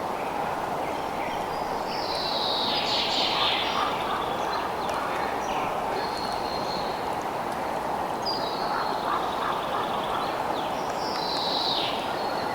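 Bird calls over a steady, even background noise. Two harsh calls slide down in pitch about two seconds in and again near the end, with shorter high calls in between.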